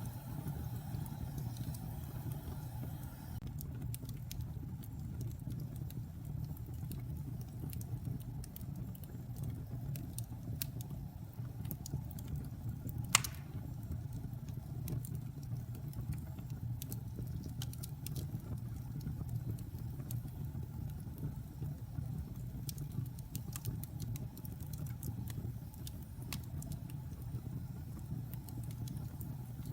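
Wood fire burning in a fireplace: a steady low rumble with scattered small crackles, and one loud pop about halfway through.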